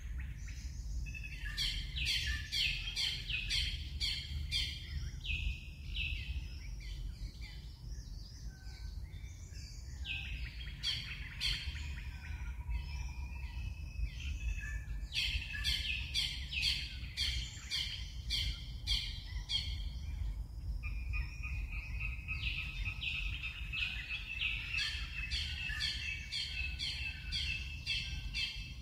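Birds calling in bouts of rapid, evenly repeated chirps, four or five bouts with short pauses between them, over a steady low rumble.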